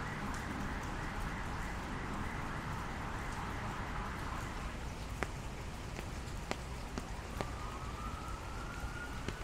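Steady rain hiss, with single drops ticking sharply from about five seconds in. Near the end a faint tone rises slowly in pitch.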